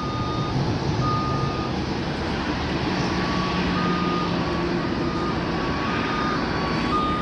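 Short electronic beeps of about half a second each, at two slightly different pitches, repeating at uneven gaps over a steady rumble of airport noise.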